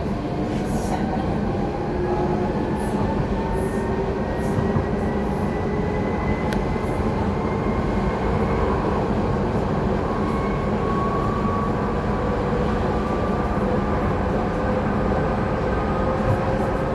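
Docklands Light Railway train running, heard from inside the front car: a steady low rumble of wheels on track under an electric motor whine that climbs slowly in pitch as the train picks up speed. A few faint clicks sound from the running gear.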